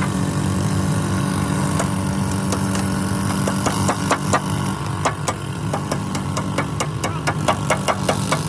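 An engine idling steadily. From about three and a half seconds in, a run of sharp knocks comes over it, several a second.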